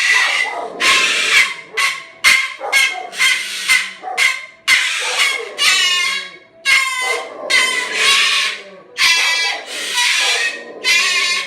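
Moluccan cockatoo screeching, a long run of loud, harsh calls at about two a second.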